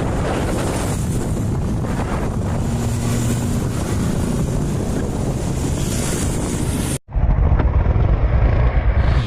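Motorcycle engine running, with wind noise on the microphone. About seven seconds in the sound cuts abruptly to another shot where the engine's low sound is stronger.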